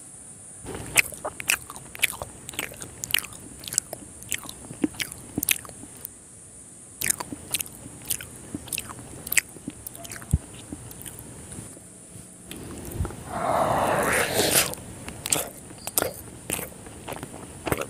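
Close-miked eating: a soft, syrupy Indian sweet being bitten and chewed, with many irregular wet mouth clicks and smacks. About 13 seconds in comes a longer, louder wet mouth noise lasting over a second.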